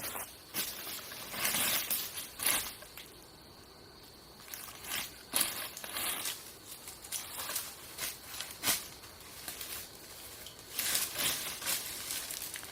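Irregular crunching and rustling noises, a dozen or so short bursts of varying strength with quieter stretches between them.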